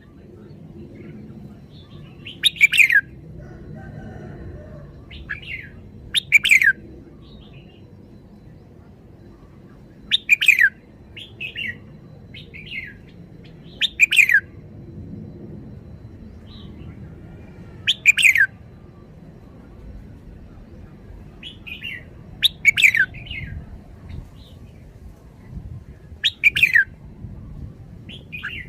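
Red-whiskered bulbul calling: short, loud, bright phrases that fall in pitch, repeated about every four seconds, with quieter notes in between.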